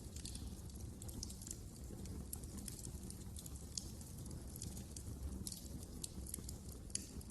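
Wood fire crackling in a fireplace: irregular sharp pops and snaps, several a second, over a low steady flame noise.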